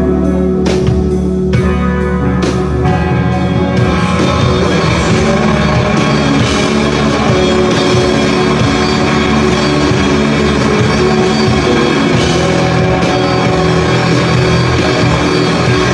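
Rock band playing live, with electric guitar and drum kit. About four seconds in, the sparse drum strikes give way to the whole band playing fuller and denser.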